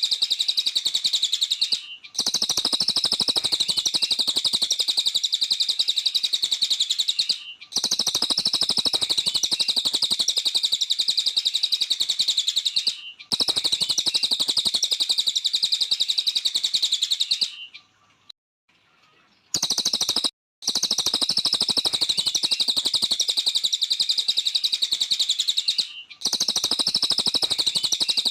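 A cililin songbird singing a fast, high, chattering trill in bouts of about five seconds, each broken by a brief pause, with a longer pause a little past the middle.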